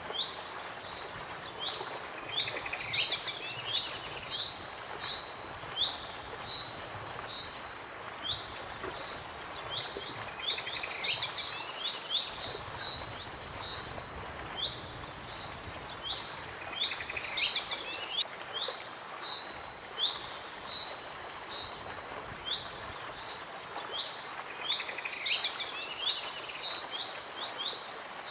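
Songbirds singing: a phrase of fast, high trills and short falling whistles that comes round about every seven to eight seconds, over a steady background hiss.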